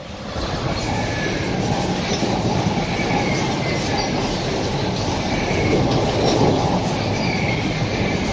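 South Western Railway electric multiple unit passing close along the platform. Its wheels run loud and steady on the rails with a clatter over the track, and faint high wheel squeals come now and then.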